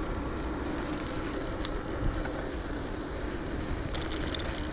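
Riding noise on an electric bike: wind buffeting the camera microphone and tyres rolling on the path, with a faint steady hum. A single knock about two seconds in and a short patch of light rattling near the end.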